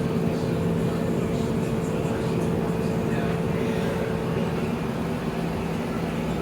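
Washing machine on its spin cycle: a steady motor hum with a constant low tone, and a higher tone that drops out about two-thirds of the way in.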